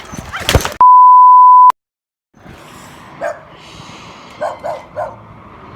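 A single loud, steady beep at one pitch lasting about a second, cutting off sharply, followed by a short silence. Then a faint background hum with a few short calls, four of them between about three and five seconds in.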